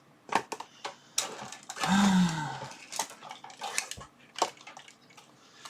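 Hard objects clicking, knocking and clattering as things are rummaged through and handled on a workbench, with a longer rattling stretch about two seconds in.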